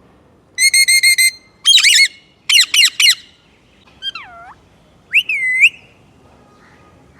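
Parrot calls: a quick run of five short chirps, then loud sweeping squawks in rapid groups, and two swooping whistled calls that dip down and back up near the end.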